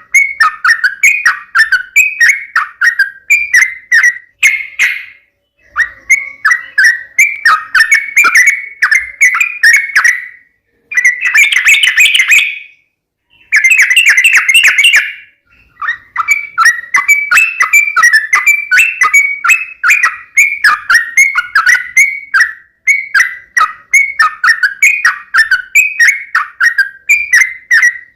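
Yellow-vented bulbul (trucuk) singing a loud, rapid chattering song: phrases of quick repeated notes, broken by a few short pauses.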